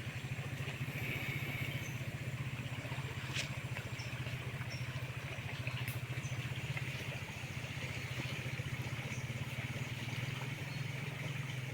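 Small engine running steadily at an even speed, with a fast regular pulse, and faint high chirps over it.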